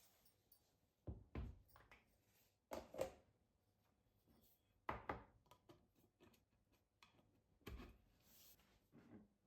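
Light knocks and thuds of objects being handled and set down, in four short clusters of two or three taps each, with quiet gaps between.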